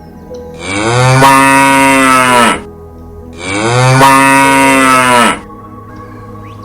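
A cow mooing twice, two long calls of about two seconds each that rise in pitch at the start and fall away at the end, over faint background music.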